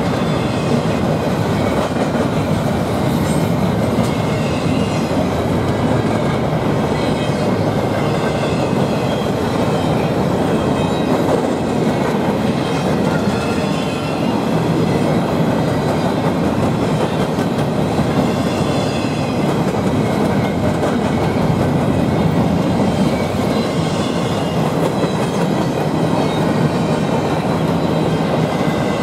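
Freight train rolling past at a steady speed, the wheels of its cars running on the rails in a loud, continuous noise.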